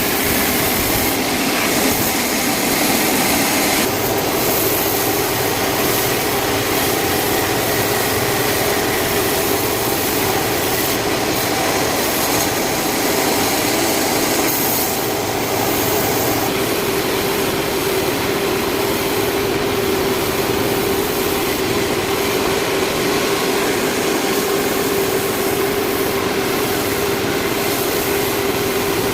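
Sawmill saw running steadily and cutting a large log, a continuous machine hum with a high hiss over it; the hum grows stronger about halfway through.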